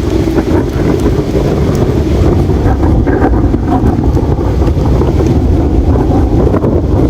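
Campfire burning, with scattered small crackles over a steady low rushing noise.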